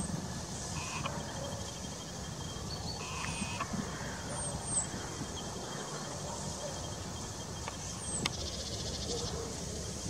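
Woodland ambience: a steady background hiss with a few faint, short, high bird chirps scattered through it and, about eight seconds in, a brief rapid high-pitched rattle.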